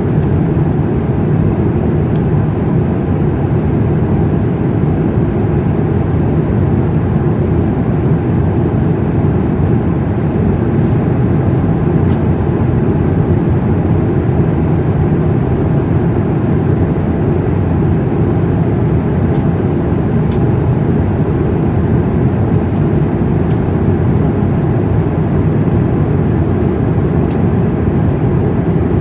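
Steady cabin noise inside an Airbus A350 airliner: an even, unchanging rush of engines and airflow, with a few faint clicks.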